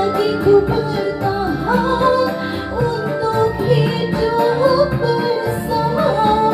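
Dangdut music: a woman singing over a backing track, with the melody line gliding up and down.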